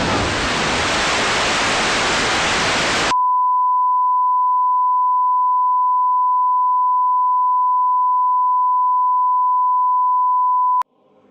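Loud hissing white-noise static for about three seconds, then switching abruptly to a steady pure 1 kHz test-tone beep that holds for about seven and a half seconds and cuts off with a click shortly before the end.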